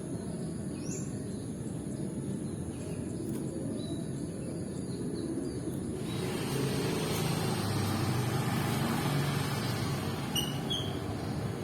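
Steady low background rumble that swells and broadens in the second half, with a few faint, short bird chirps.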